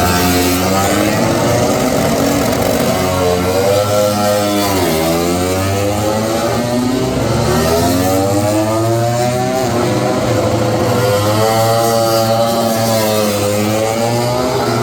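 Racing motorcycles on the circuit, their engines rising in pitch through the gears and then dropping sharply, three times over as bikes go by.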